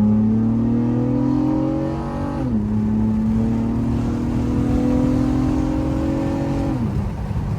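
Honda Accord V6 engine accelerating, heard from inside the car: its pitch climbs steadily, drops at a gear change about two and a half seconds in, climbs again, then drops once more near the end.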